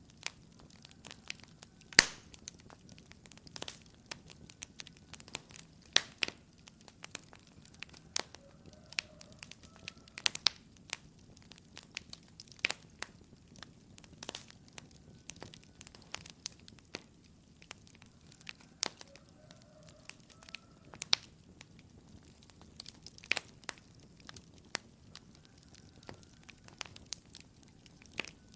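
Wood fire in a fireplace crackling, with irregular sharp pops and snaps over a low steady rustle of the flames; the loudest pop comes about two seconds in.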